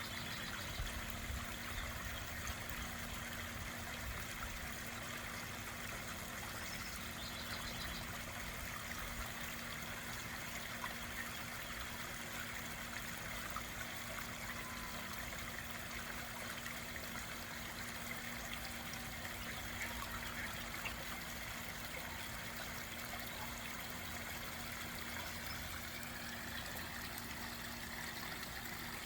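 Water trickling steadily over a backyard pond waterfall.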